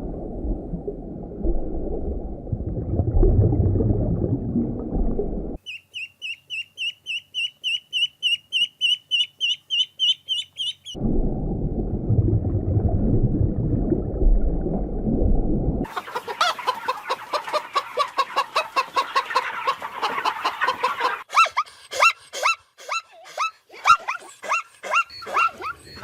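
A run of separate animal sounds that cut in and out sharply. A low, noisy sound plays twice, with a fast series of high, rising chirps at about four a second between the two. The last ten seconds are chickens clucking in quick, repeated calls.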